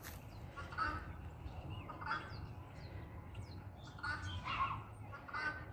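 A large bird giving several short calls, spaced a second or two apart.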